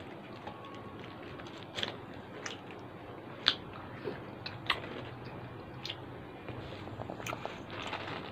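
A person chewing fried chicken and rice eaten by hand, with short sharp crunches every second or so, the loudest about three and a half seconds in.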